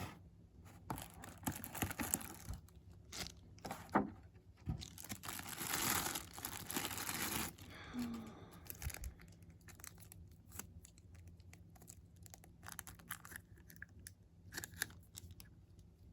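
Doll packaging being torn open and crinkled by hand. A longer stretch of tearing and rustling comes about five to seven seconds in, among scattered small clicks and handling noises.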